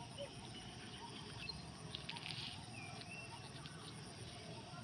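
Faint outdoor ambience with scattered short chirps and calls, and a brief crackle about two seconds in.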